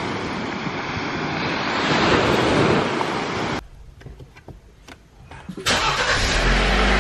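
Surf and wind rushing over the microphone on a beach. Then, after a quiet stretch with a few clicks, a car engine is started by push-button about six seconds in and settles into a steady low idle.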